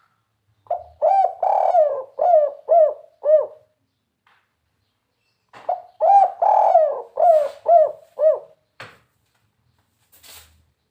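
Spotted dove (tekukur) cooing in the 'kuk 3' style: two phrases of about six low coo notes each, the second starting about two seconds after the first ends. A brief faint rustle near the end.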